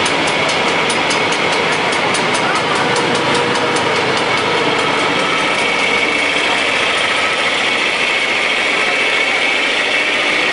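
Antique farm tractor engines running steadily, with a regular popping of about five beats a second that fades out around the middle.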